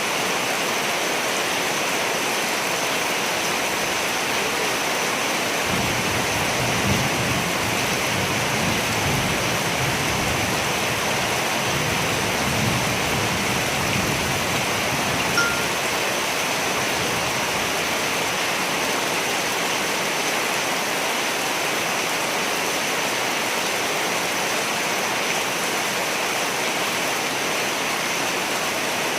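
Steady rain falling. About a fifth of the way in, a low rumble of distant thunder comes in and lasts roughly ten seconds.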